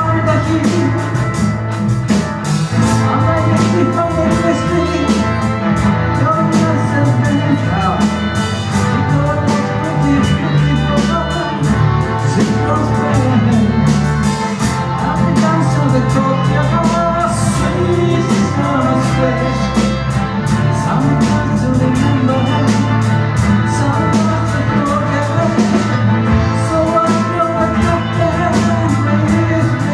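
Live rock band playing a song: drum kit, bass and guitar, with a singer's voice.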